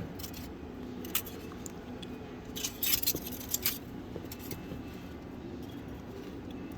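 Light metallic clinking and rattling of handled metal parts, a single click about a second in and a quick cluster of clinks about three seconds in, over a steady low hum.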